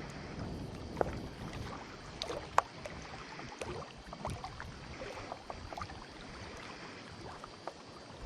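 Canoe being paddled: a steady wash of water noise broken by sharp knocks and clicks, the loudest about two and a half seconds in.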